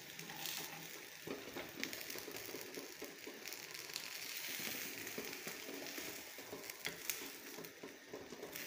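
Egg omelette sizzling in oil in a nonstick frying pan, a steady hiss with scattered small crackles and pops.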